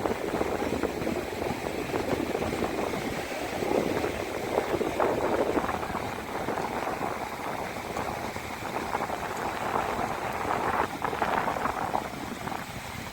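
Sea water churning and splashing along the hull of a moving passenger ferry boat, a steady rushing noise that rises and falls.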